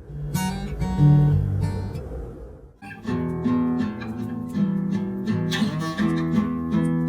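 Nylon-string classical guitar played slowly. Single low notes with a slide along a low string lead into the transition to the second verse, then after a short break near three seconds in come evenly repeated strummed chords.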